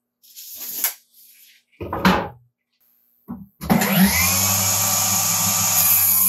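Scrap boards handled and set down with scrapes and a knock, then a power tool's electric motor starts about three and a half seconds in, its whine rising as it spins up and holding steady at speed.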